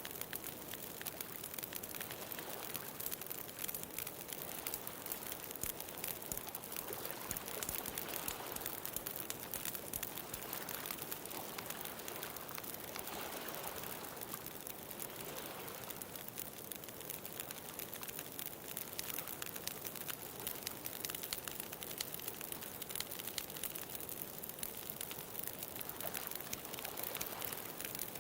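Wood bonfire crackling with a constant patter of small pops, over ocean waves washing onto a beach that swell and fade slowly through the middle.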